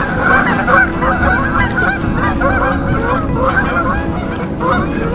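A flock of waterfowl calling, many short honking calls overlapping without a break.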